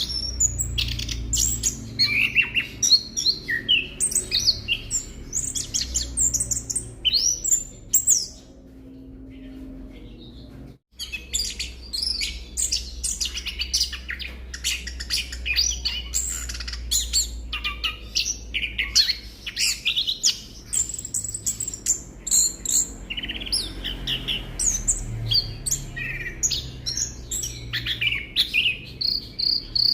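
Orange-headed thrush singing a fast, varied stream of high chirps and whistled phrases. It breaks off for a couple of seconds about a third of the way in, then resumes just as busily.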